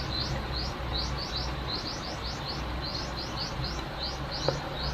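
Small birds chirping in the background: short high rising chirps repeating several times a second in loose groups, over a low steady hum. A faint click about four and a half seconds in.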